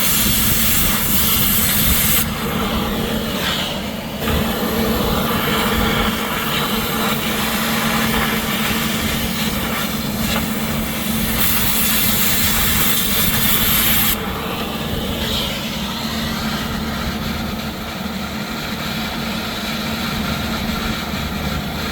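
Cutting torch running with a steady hiss as it cuts out rounded-off bolts. Its hiss turns sharper and louder for about two seconds at the start, and again for a few seconds past the middle. A steady low hum runs underneath.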